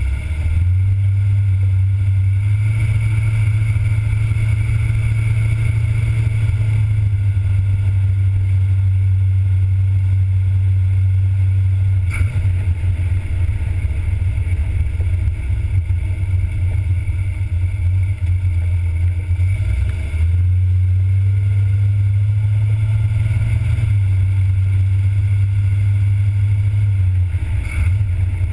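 1977 Corvette's small-block V8 running as the car drives along, a steady low drone that shifts in pitch several times as the speed changes.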